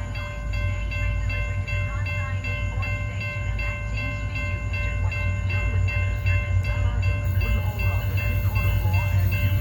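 Train running: a steady low rumble with a constant high whine held over it, growing slightly louder.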